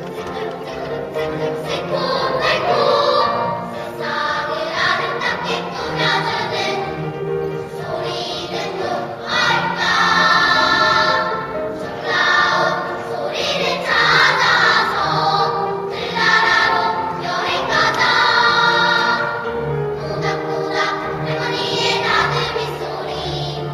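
Children's choir singing a song, with sustained sung phrases over a steady low accompaniment.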